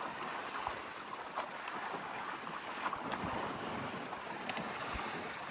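Freedom 28 sailboat under sail: a steady hiss of wind and water washing past the hull, with a few faint clicks.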